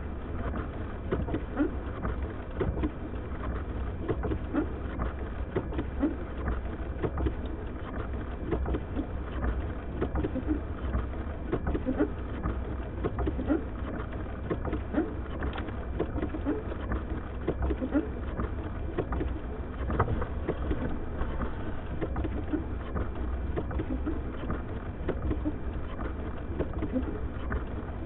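Blizzard wind buffeting a car: a steady low rumble with many short, irregular thumps and gusts.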